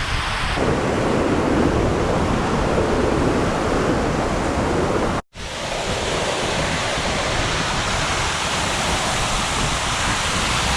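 Steady rush of a waterfall pouring onto the beach, mixed with ocean surf and some wind on the microphone. The sound cuts out for an instant about five seconds in, then carries on.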